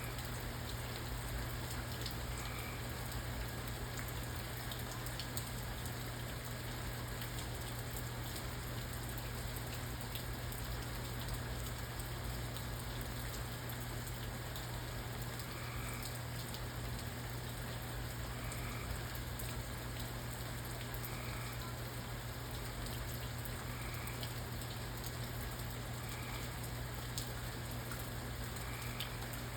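Steady rain falling, with individual drops ticking on a surface, over a steady low hum. A faint short call repeats every two to three seconds.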